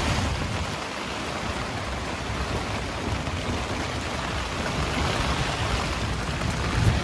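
Heavy rain and gusting wind in a storm: a steady rushing noise with uneven low rumbles.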